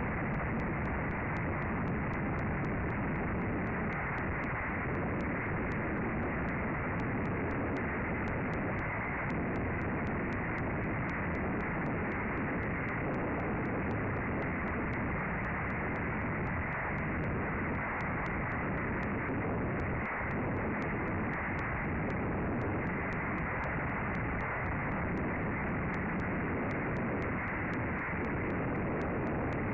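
Strong wind blowing over the nest camera's microphone: a steady, dense rush of noise.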